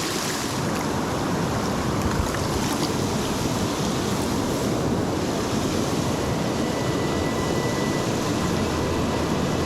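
Steady rush of river water from the Pit River flowing past.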